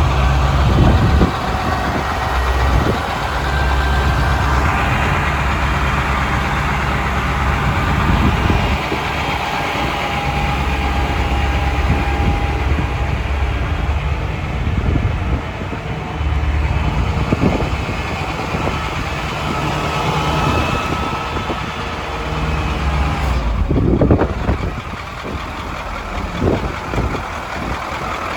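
Heavy quad-axle truck's engine running steadily, with occasional knocks and clatter.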